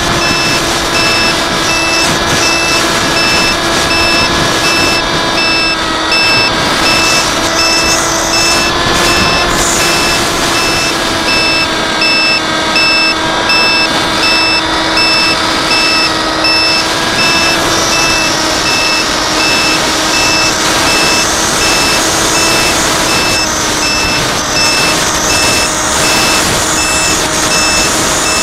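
A steady pitched hum with many overtones, drifting slightly in pitch, under an evenly repeating high electronic beep of about two pulses a second, like a vehicle's reversing alarm.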